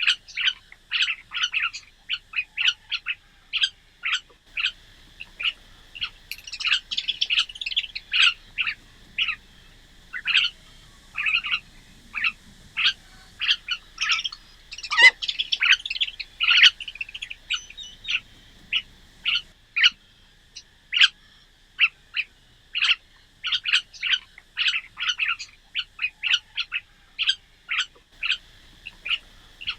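Small birds chirping and calling, many short chirps in quick, irregular succession.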